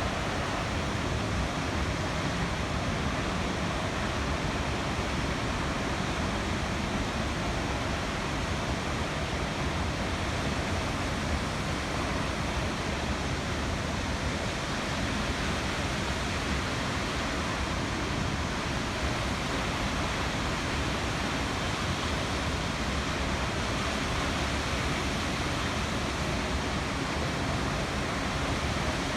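Steady, unbroken rush of water pouring through Amagase Dam, an even noise spread from deep rumble to hiss with no change throughout.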